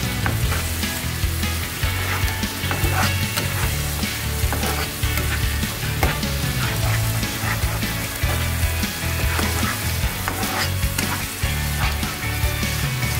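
Onion-tomato masala sizzling in a nonstick frying pan, stirred and scraped with a spatula, with many small clicks of the spatula and spitting sauce. The spices are being fried down (kosha) until the raw taste is gone.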